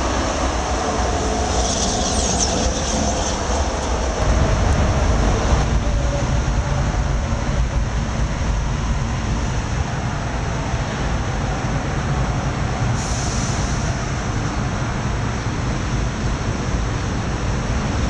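Freight train rolling past with a loud, steady rumble of wheels on rail. Short high-pitched wheel squeals come about two seconds in and again about thirteen seconds in.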